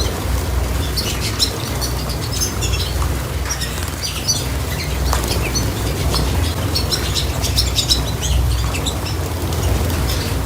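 Small cage birds chirping in short, frequent calls, with wing flutters, over a steady low rumble.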